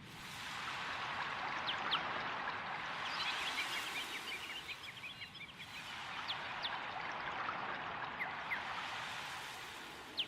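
Water running in a stream, a steady rushing that fades in over the first second, with small birds chirping over it, most busily about three to four seconds in.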